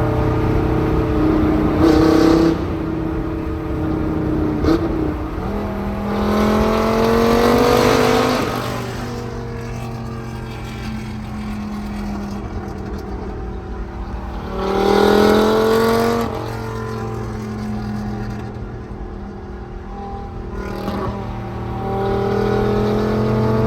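1999 Dodge Viper RT/10's 8.0-litre V10 through a Corsa cat-back exhaust with no catalytic converters, running at a steady idle and revving up twice, each rev climbing for about two seconds before dropping back. A couple of sharp cracks come in the first few seconds.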